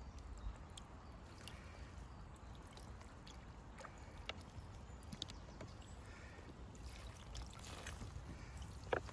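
Faint river water trickling, with a few small clicks and splashes over a low rumble.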